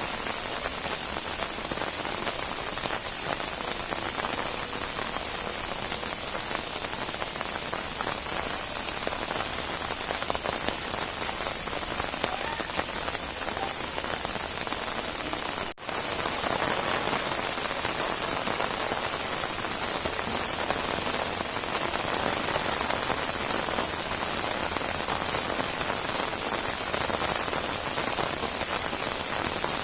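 Steady rain falling on a surface, an even hiss of many drops. Just past halfway it cuts out for a split second and comes back slightly louder.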